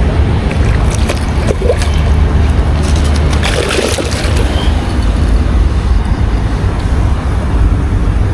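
Wind buffeting the microphone: a loud, steady low rumble with a rushing haze over it.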